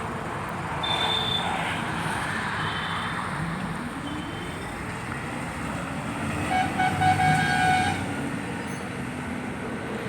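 Steady vehicle and traffic noise, with a vehicle horn sounding about six and a half seconds in and holding for over a second.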